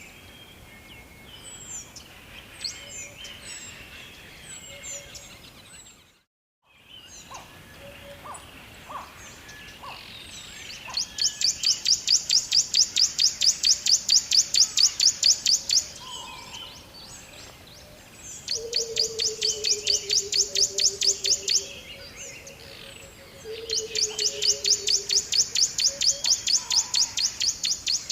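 Birds chirping over a soft steady hiss, with a short dropout about six seconds in. Later come three loud, rapid, high pulsed trills, each lasting several seconds, and a low falling whistle under the last two.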